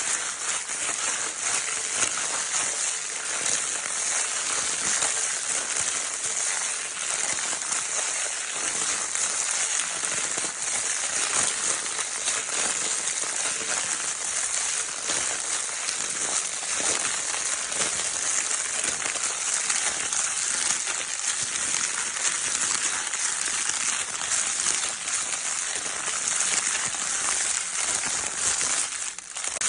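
Crinkle paper in a baby's crinkle toy being crumpled and rustled without pause, a dense, steady crackling hiss that briefly dips near the end.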